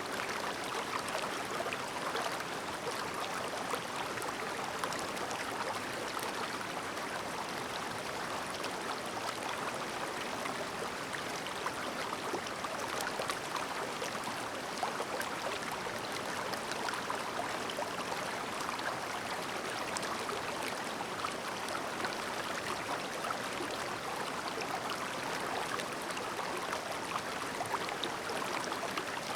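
Clear, shallow mountain stream babbling: a steady, even rush of flowing water with fine little splashes running through it.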